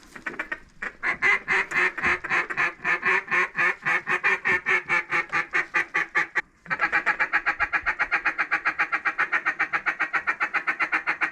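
Duck call blown in two long, rapid strings of even quacks, the second string faster, with a short break between them: hunters calling to ducks working toward the blind.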